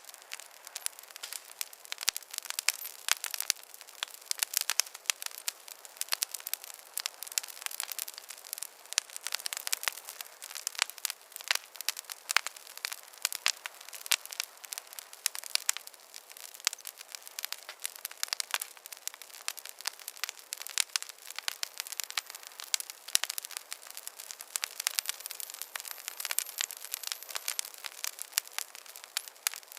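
Wood fire crackling in a fireplace: dense, irregular pops and snaps over a soft hiss.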